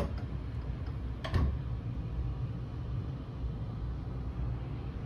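Steady low rumble of the Sunrise Seto sleeper train heard from on board, with a sharp knock about a second and a half in.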